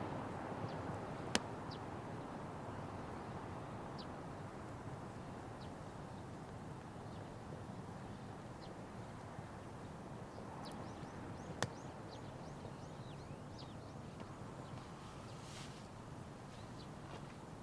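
Wood fire burning with a steady hiss, with two sharp single pops from the burning wood, one about a second in and one near the middle. Faint short bird chirps come and go in the background.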